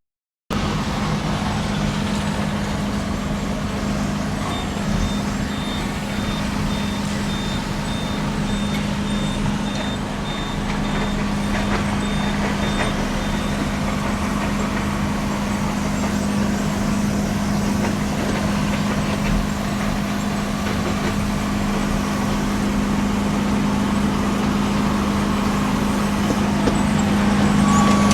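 Heavy truck's diesel engine running steadily with a low, even hum. A faint, high, pulsed beeping runs for several seconds early on.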